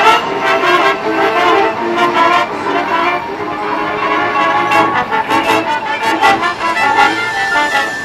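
Marching band playing: brass carrying the tune over steady drum strokes.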